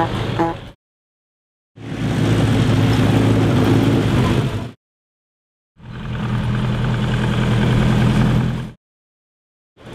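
Model T Ford speedster four-cylinder engines running at a steady pitch as the cars drive past, heard as three short separate clips, the last two about three seconds each, with about a second of silence between them.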